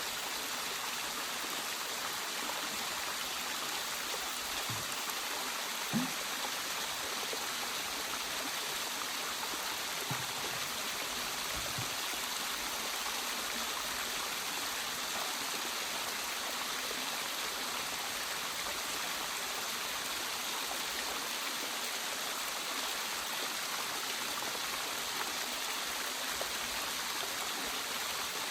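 Waterfall: a steady, even rush of falling water, with a few soft low thumps in the first dozen seconds.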